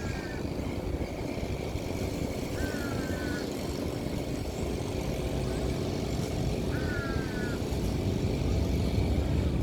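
Steady low rumble that grows a little louder near the end, with three short falling chirps from a bird spaced a few seconds apart.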